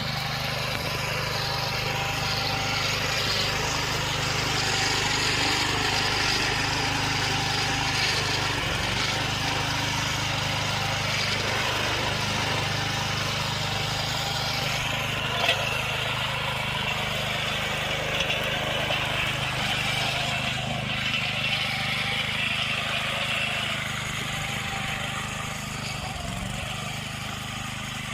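Small gasoline engine of a repowered David Bradley walk-behind tractor running steadily.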